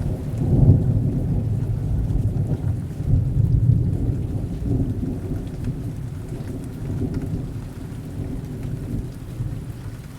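Thunderstorm: heavy rain falling steadily, with a long, deep roll of thunder that is strongest in the first few seconds and slowly fades.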